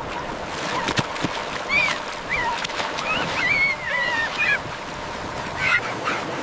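Puppies whimpering in high, wavering cries over a steady rush of floodwater, with a sharp knock about a second in.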